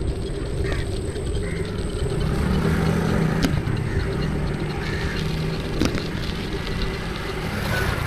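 Wind and road noise on the camera microphone while riding, with a low engine hum that swells in the middle and fades near the end, and a few short high calls or honks.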